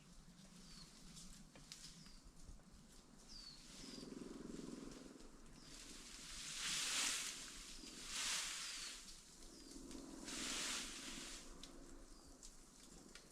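Jungle ambience: short, high, falling chirps from a small bird every second or so, then three longer bursts of rustling noise about halfway through.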